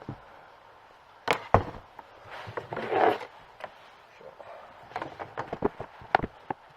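Handling noises from the boots and balm being moved about: two knocks about a second in, a short rubbing noise around three seconds, then a run of light taps near the end.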